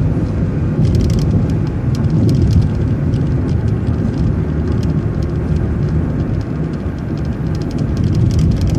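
City bus in motion, heard from inside: a steady low engine and road rumble with frequent light rattling clicks.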